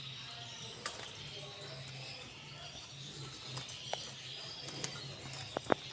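Female canary with faint, short, soft chirps, and a handful of sharp clicks and taps, two in quick succession near the end, over a steady low hum.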